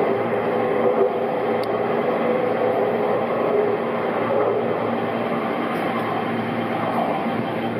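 Steady hum and rumble of an electric train at a station platform, with a single faint click about a second and a half in.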